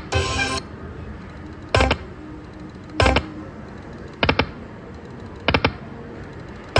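Lightning Link "Best Bet" slot machine sound effects: short electronic chimes and clicks, repeating about every second and a quarter as the game spins and the reels stop.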